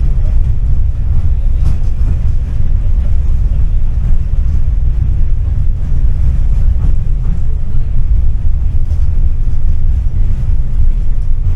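Tram running along the track, heard from the passenger cabin as a loud, steady low rumble with faint scattered clicks over it.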